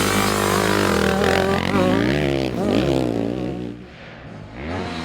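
Small two-stroke motocross bike engines revving up and down through the gears as they race, the pitch rising and falling over and over. Near the end the engine sound drops away briefly, then climbs again.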